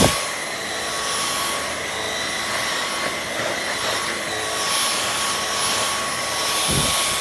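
Dyson V11 cordless stick vacuum running steadily: a high motor whine over rushing air. There is a sharp knock right at the start and a dull thump near the end.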